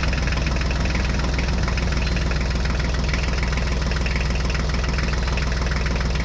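Diesel tractor engine sound idling: a steady low chugging that holds the same pace and level throughout.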